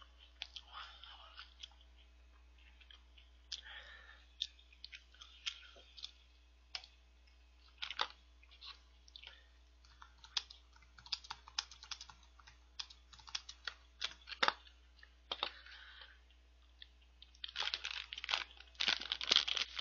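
Crunchy chocolate cereal snack being chewed close to the microphone: scattered sharp crunches and clicks. From about 17 seconds in, a plastic snack wrapper crinkles.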